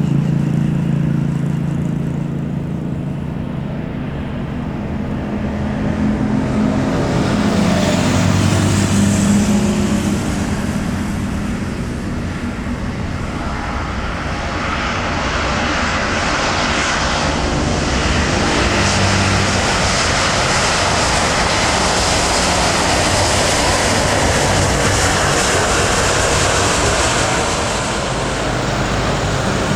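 Jet airliner engines: the noise swells about seven seconds in and stays loud as a broad, steady rush with a strong high hiss.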